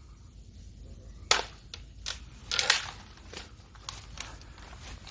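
Irregular sharp cracks and snaps of sticks and brush being broken and trampled, about a dozen, the loudest a little over a second in and a cluster of them around halfway through.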